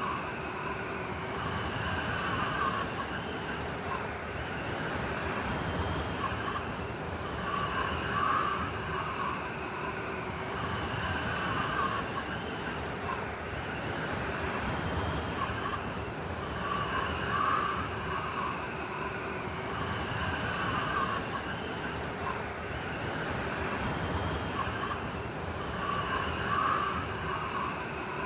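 Blizzard wind blowing steadily, with a whistling howl that swells and fades every few seconds.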